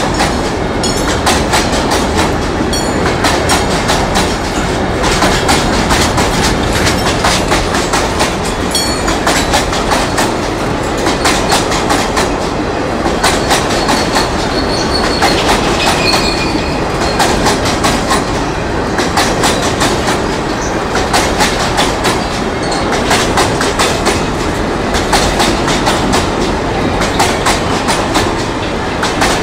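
Freight train's covered hopper wagons rolling past close by, their wheels clattering steadily over the rail joints. There is a brief high wheel squeal about halfway through.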